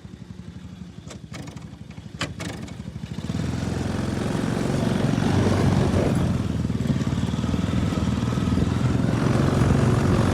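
Lawn mower engine running quietly, with a few sharp clicks, then about three seconds in it speeds up and runs much louder and steadily.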